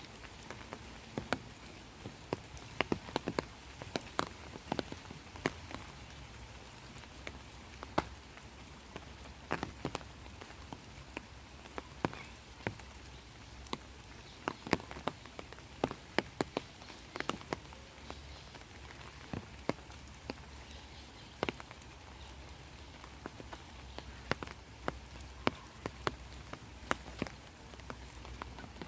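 Rain falling, a soft steady hiss with many separate drops tapping close by at irregular moments, a few of them loud.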